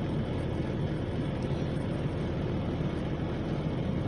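Steady low rumble of a semi truck's idling engine, heard inside the cab, with a couple of faint light clicks.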